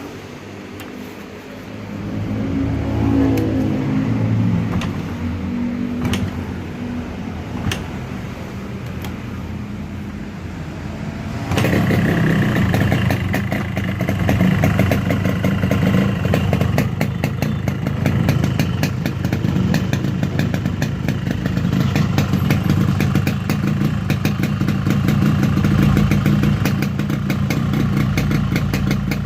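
Yamaha RX-King two-stroke single-cylinder motorcycle engine running through its stock exhaust with a side modification, a crisp, dry exhaust note. It is revved up and back down about two to four seconds in, then runs steadily, and it turns suddenly louder and rougher about twelve seconds in.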